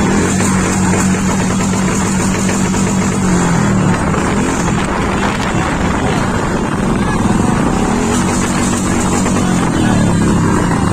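Motorcycle engines running steadily in a bike rally, a continuous hum that dips and rises a little in pitch a couple of times, over a wash of traffic and crowd noise.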